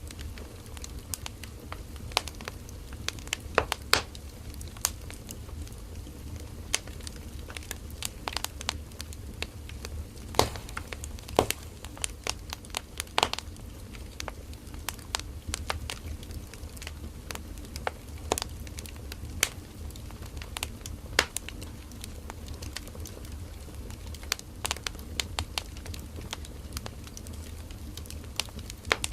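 Firewood burning in a campfire: irregular sharp crackles and pops, some louder than others, over a steady low rumble of the fire.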